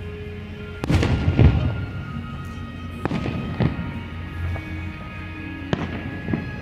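Fireworks bursting overhead, about six sharp booms spaced a second or two apart, the loudest near the start, with music playing underneath.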